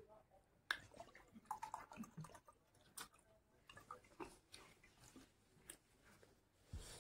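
Faint close-up chewing with wet lip smacks and mouth clicks coming irregularly, and a low thump near the end.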